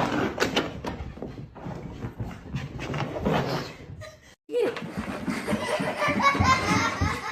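People laughing, mixed with some indistinct talk. The sound drops out briefly about four seconds in, then the laughing and voices go on.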